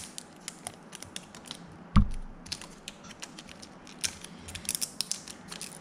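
Plastic packaging wrap being peeled and unwrapped by hand, giving many small irregular crackles and clicks that come thicker toward the end, with one louder knock about two seconds in.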